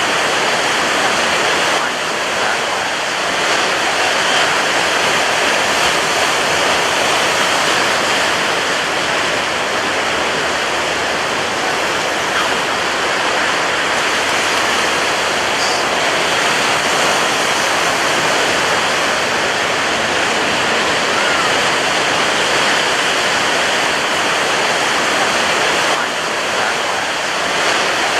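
Ocean surf breaking on a beach: a loud, steady rush of waves with hardly any rise and fall.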